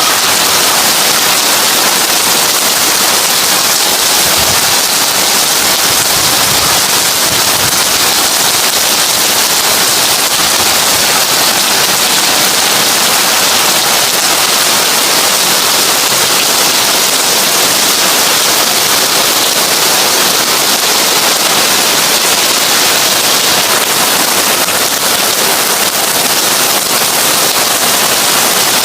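Heavy rain falling on a tin roof: a dense, steady hiss of drops that does not let up.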